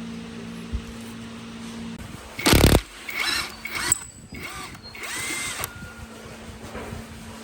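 Small electric power tool motor, such as a drill, running steadily, then stopping about two seconds in. Just after it stops comes a short, loud rushing burst, followed by scraping and clinking as metal parts are handled.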